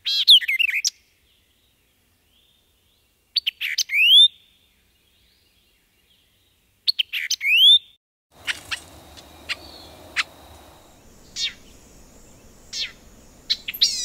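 White-eyed vireo singing: three short phrases of quick, sharp notes, each ending in a rising slurred note, with pauses between them. After that come a run of single sharp notes over faint background hiss.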